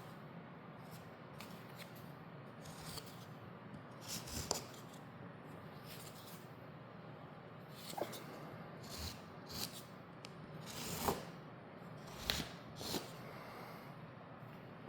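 Putty knife spreading and scraping joint compound onto the edges of a drywall patch: a handful of short scrapes from about four seconds in, over a faint steady hum.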